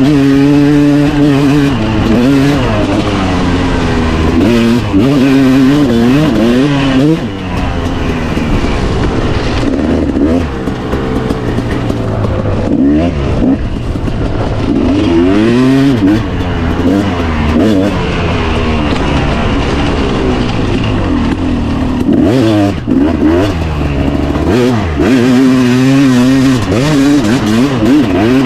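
A 250 cc two-stroke dirt bike engine being ridden hard, its pitch climbing and falling again and again as the throttle is opened and closed.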